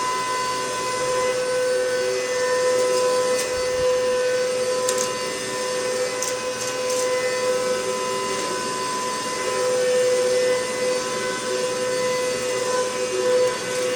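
Hoover MaxLife Total Home Pet upright vacuum running steadily, its motor giving a constant whine over a rushing airflow, with a few brief ticks in the middle.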